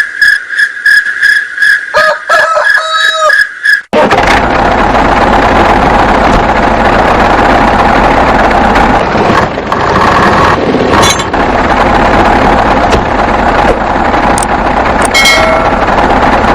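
A high beeping tone pulsing about three times a second, with a few short gliding tones. About four seconds in it cuts to a small engine-driven machine running with a loud, dense, steady clatter.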